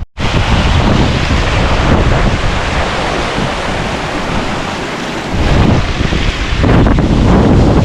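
Strong wind buffeting the microphone: a loud rushing noise with a deep rumble, which eases for a moment in the middle and picks up again about five seconds in.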